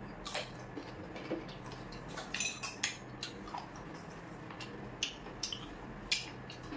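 Someone biting and chewing raw green mango: a scattered series of short, crisp crunches and clicks.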